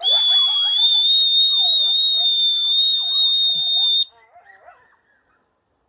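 A dog whistle blown in one long, loud, steady blast of about four seconds. Under it a pair of wild coyotes are yipping and howling with wavering calls that carry on for about a second after the whistle stops.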